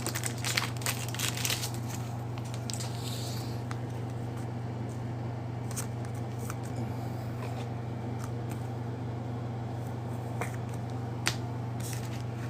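Trading cards being handled and worked into plastic card sleeves: soft rustles and small clicks, busiest in the first two seconds, then only occasional ticks over a steady low hum.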